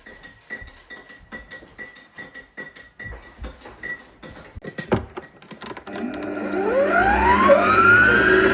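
Light clicks and taps, then about six seconds in a small electric motor spins up: a whine that rises in pitch, levels off and grows loud.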